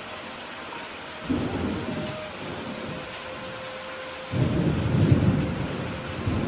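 Steady rain falling, with thunder rumbling in sudden peals: a short one about a second in and a louder, longer one from about four seconds in, with another starting near the end.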